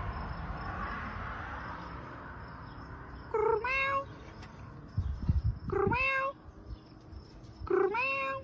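Domestic cat meowing three times, about two seconds apart; each meow is a drawn-out call that rises in pitch. A few low thumps come about five seconds in.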